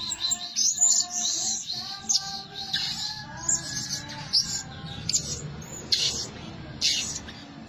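Blue-crowned hanging parrot giving shrill, high-pitched calls, used as a decoy call to lure wild birds. The calls come in a quick run over the first few seconds, then singly about once a second.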